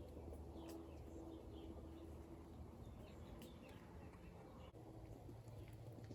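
Faint outdoor ambience with a few brief, scattered bird chirps.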